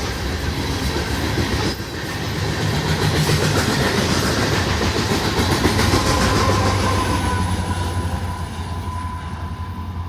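Freight train rolling past at speed: a steady rumble of the railcars with wheels clattering over the rail joints, easing off slightly near the end.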